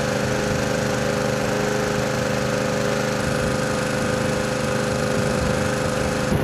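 Heavy vehicle engine running steadily at a constant pitch, typical of a tow truck or crane working to right a sunken truck.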